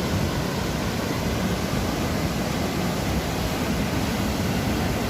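Sea surf washing onto the shore, a steady rushing noise.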